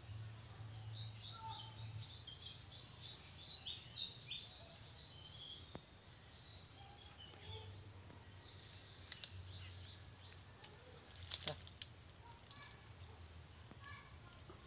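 A bird singing: a fast run of short, high, downward-slurred notes, about four a second, for some three seconds, followed by scattered chirps. A few sharp snaps stand out about eleven seconds in.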